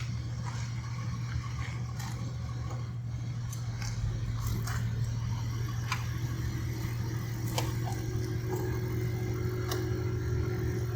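Onboard air compressor running steadily as it fills the air hose and tire, with a low even hum and a few light clicks and rattles from the hose and fittings. About four seconds in, a higher hum joins and it gets slightly louder as it works against rising pressure.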